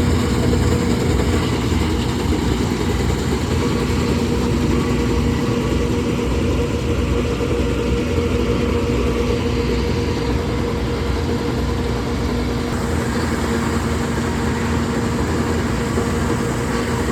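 Engine running steadily at constant speed: a low rumble with an even, unchanging hum.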